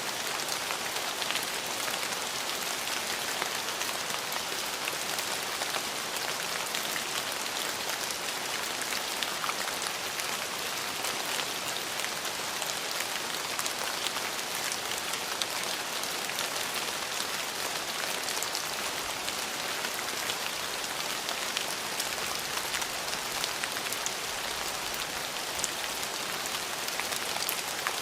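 Steady rain falling on surfaces, an even hiss with many fine individual drop ticks.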